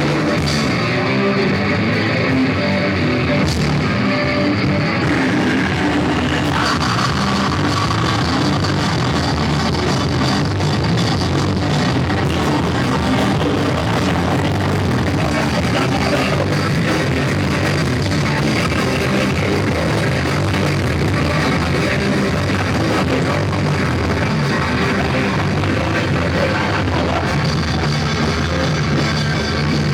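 Rock band playing live and loud, with electric guitar and drums, in a rough, poor-quality recording.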